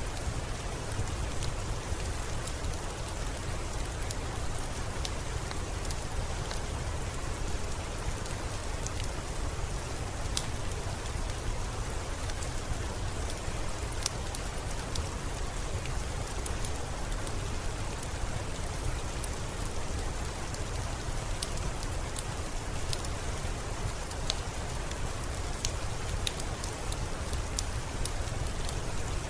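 Steady rainfall on surfaces, an even hiss with a low rumble underneath, sprinkled with many small sharp ticks.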